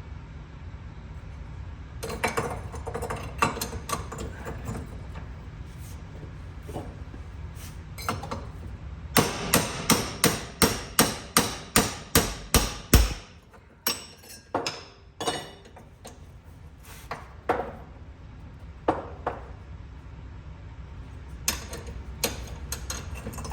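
Hammer blows on metal, a part being beaten straight. A few scattered strikes come first, then a quick run of about a dozen blows at roughly three a second, then more spaced-out hits.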